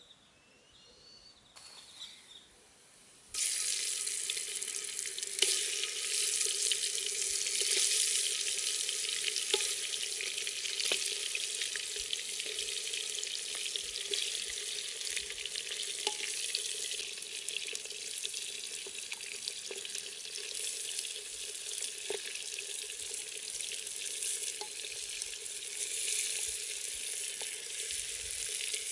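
Goat trotters, onions and tomatoes frying in hot oil in a clay pot over a wood fire: a steady sizzling hiss dotted with small pops, starting abruptly about three seconds in.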